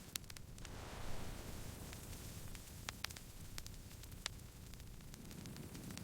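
Wood campfire crackling: scattered sharp pops and snaps over a low, steady rumble of the burning fire, with a brief swell about a second in.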